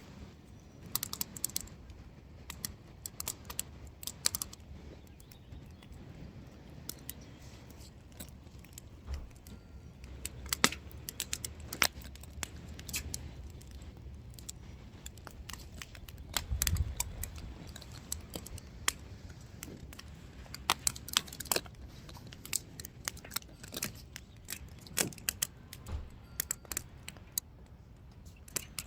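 Firewood burning, crackling and snapping at irregular intervals over a low steady rumble.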